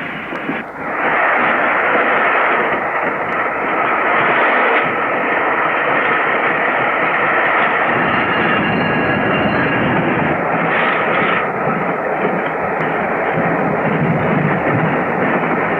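Steam locomotive Flying Scotsman, an LNER A3 Pacific, under way with its express train: a loud, steady rush of steam and train noise that swells up about a second in.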